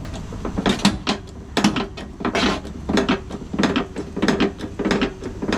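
Hand pump of a porta power hydraulic ram being worked stroke after stroke, its lever and pump clicking and clanking about once every three quarters of a second as the ram pushes out to stretch a piece of steel.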